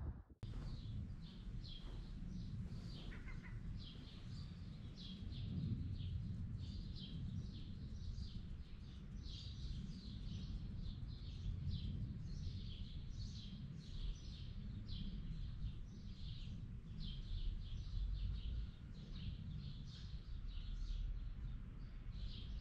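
Small garden birds chirping, short high notes repeated several times a second without a break, over a low steady rumble.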